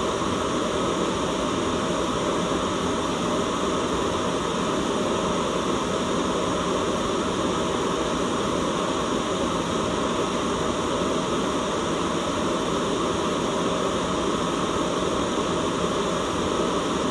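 Continuous white noise: an even, unchanging hiss, fullest in the low and middle range.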